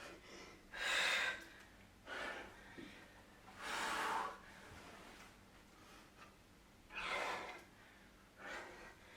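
A woman breathing hard from exercise exertion: about five heavy breaths a second or more apart, the loudest about a second in and about four seconds in.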